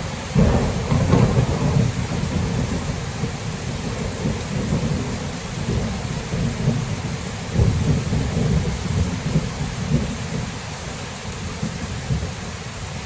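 Thunderstorm: steady rain with rolling thunder. A loud rumble breaks about half a second in, and another swells up around the middle of the stretch.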